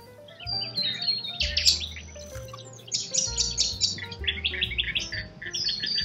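Birds chirping, with fast runs of short high chirps in the second half, over background music that has a low bass line.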